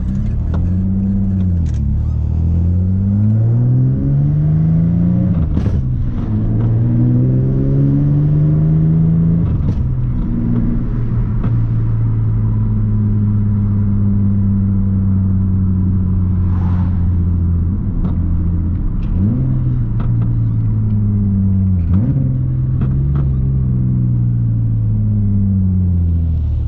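Nissan Maxima's 3.5-litre V6, heard from inside the cabin, pulling through the gears of its swapped-in six-speed manual. The engine pitch climbs and drops at two upshifts in the first ten seconds, then holds fairly steady while cruising, with a few brief dips off the throttle.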